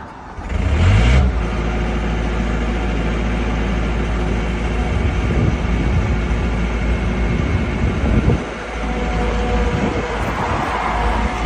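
John Deere 320 skid steer's diesel engine running steadily, with a brief rise in revs about a second in.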